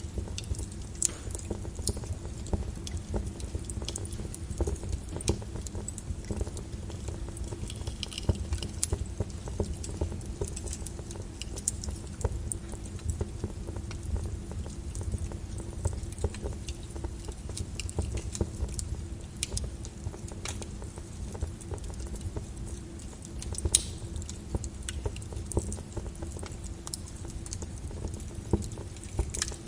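Wood fire burning in a fireplace, crackling and popping irregularly over a low steady rumble of flames, with one louder pop about three-quarters of the way through.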